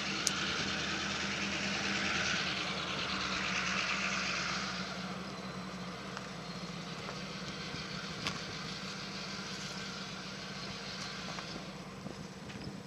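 Union Pacific freight train running: a steady engine hum under a hiss of wheel and rail noise that fades after about five seconds, with a few sharp clicks.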